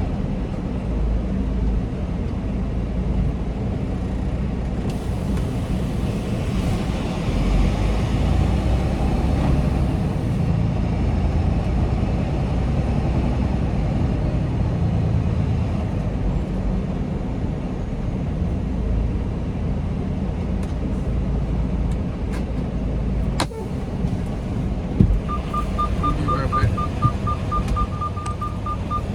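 Semi-truck diesel engine running with a steady low rumble. A stretch of louder hiss comes about five to ten seconds in, a sharp click about twenty-three seconds in, and a fast, high-pitched beeping over the last few seconds.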